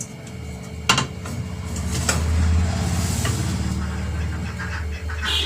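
A low rumble that swells to a peak halfway through and slowly fades, like a motor vehicle going past, with one sharp knock about a second in.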